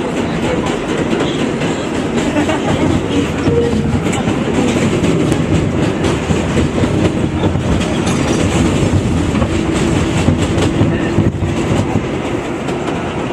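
A New York City Subway 7 express train running along the track: a steady rumble of the cars with repeated clicks from the wheels over the rails.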